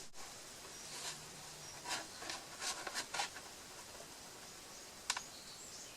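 Faint clicks and light rustles of plastic feeder parts being handled, a few scattered taps about two to three seconds in and one more near the end.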